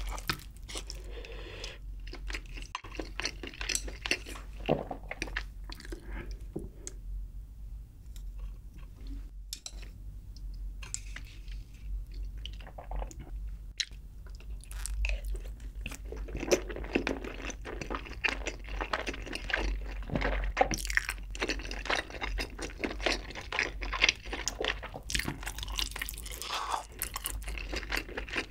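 Close-miked chewing of spicy Spam and sausage stew with braised chicken: a steady run of short clicks and smacks from the mouth, with a brief lull about a quarter of the way in.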